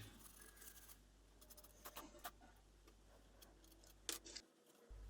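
Near silence: room tone with a few faint short clicks, a cluster about two seconds in and one more about four seconds in.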